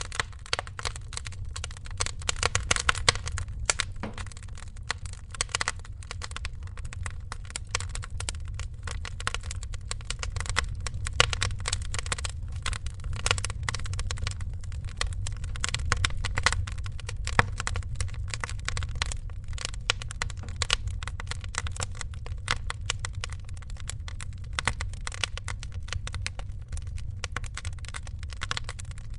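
Wood fire crackling: a dense, irregular run of small crackles with a few louder pops, over a steady low rumble.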